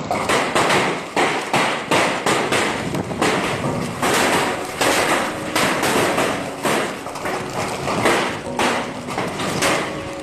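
Hailstones pelting a hard surface: a dense, irregular clatter of sharp hits.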